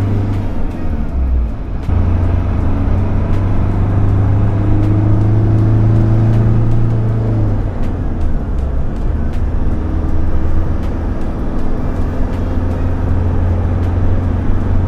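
Motor vehicle running, a steady, loud low rumble with an engine tone that drifts up and down in pitch.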